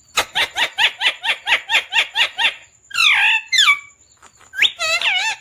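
Pet parrot calling: a rapid run of about a dozen short, sharp notes, about five a second, followed by a few sweeping, warbling squawks.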